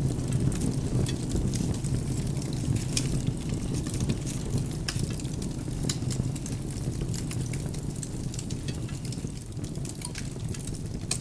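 Wood fire in a fireplace crackling, with frequent small sharp pops over a steady low rumble.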